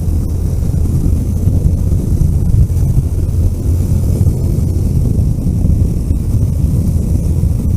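A vehicle driving along a road: a steady, loud, low rumble of engine and road noise with some wind buffeting, holding level throughout.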